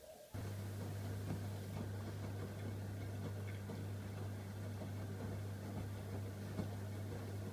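AEG Öko-Lavamat 85739 washing machine mid-cycle: a steady low electric hum switches on abruptly about a third of a second in and runs on evenly, with faint clicking and water noise underneath.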